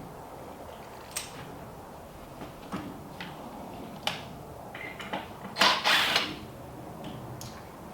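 Scattered light knocks and clicks of handling and work, with a louder, noisy burst lasting about half a second around six seconds in.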